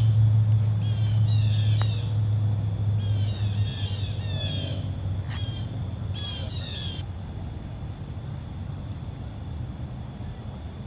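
Birds calling in repeated groups of short, falling chirps, over a low rumble for the first few seconds. A sharp tick comes about five seconds in, and a steady high whine sets in at about seven seconds.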